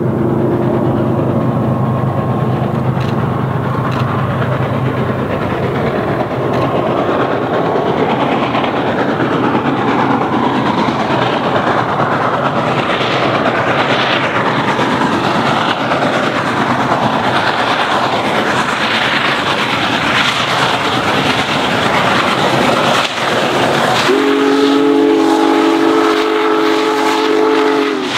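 Union Pacific Big Boy 4014, a 4-8-8-4 articulated steam locomotive, working hard up a grade with a heavy train: dense exhaust and running noise with wheels on the rails. About 24 seconds in, a train's chime horn sounds a steady chord for about four seconds.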